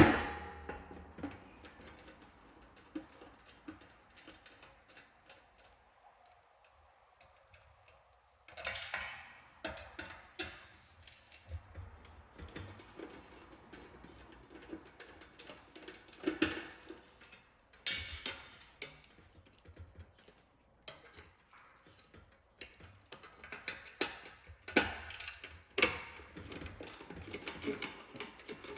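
Irregular clicks, taps and knocks of small hard parts and tools being handled, with a few louder knocks spread through and a quiet stretch early on.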